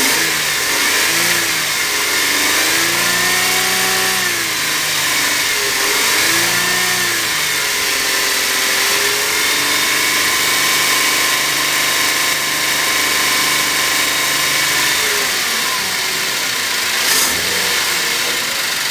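2009 Holden Commodore 3.6-litre V6 engine running, revved up and let fall back to idle several times in the first nine seconds or so, then held at a steady idle. A short sharp knock comes near the end.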